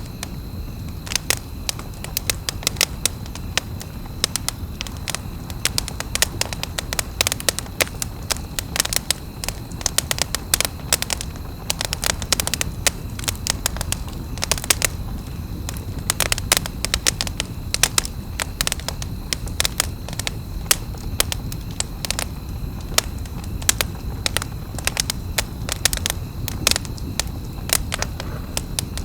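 Wood fire burning, with frequent irregular sharp crackles and pops over a steady low rumble of flames.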